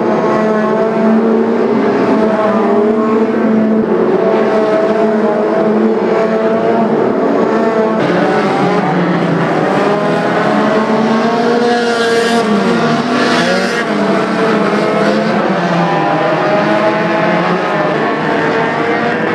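Several banger or stock car engines racing around an oval at once, their pitches rising and falling as they rev through the laps. About twelve seconds in there is a brief burst of harsh, hissing noise.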